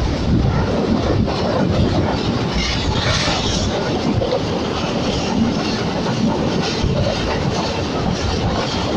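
Passenger train running along the track: a steady rumble of wheels on rails, with no single standout event.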